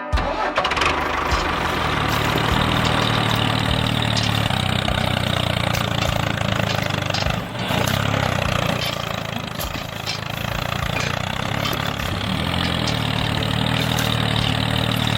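A small engine running steadily, with a brief dip in level about halfway through and a slightly softer stretch a couple of seconds later.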